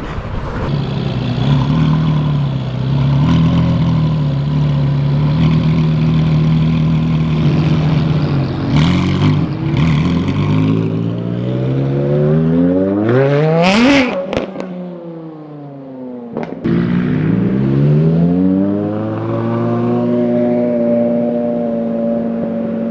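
Bugatti Chiron's quad-turbocharged W16 engine running steadily at low revs, then revving up hard to a peak about fourteen seconds in and dropping off sharply. After a short blip it rises again and levels off at a steady pitch.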